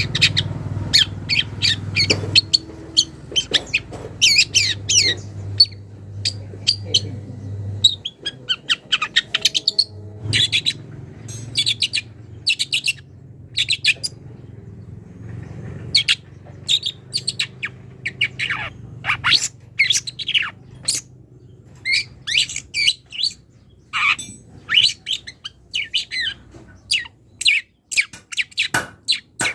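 Young long-tailed shrike calling in quick runs of short, sharp chirps and harsh squawks, with a few brief pauses. The bird is starting to bring out the mimicked songs of other birds that it has learned.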